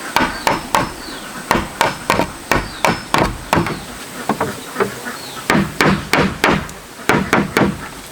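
Hammer blows on wood, struck in quick runs of about two to three a second.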